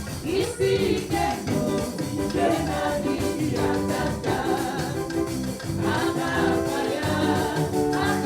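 Gospel music: singing over instruments with a steady beat.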